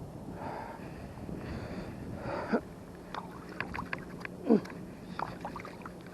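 Creek water sloshing and splashing in a few short scoops, with two loud gurgling plops and a scatter of small clicks and drips, over light wind on the microphone.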